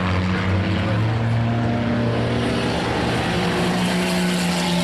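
Several race car engines running together around the oval in a chain race, a steady drone of overlapping engine notes that rise and fall slightly in pitch.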